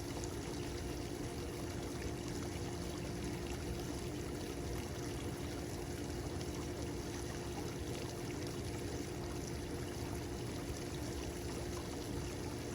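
Steady rush of pouring or running water, even throughout, with a faint steady hum underneath.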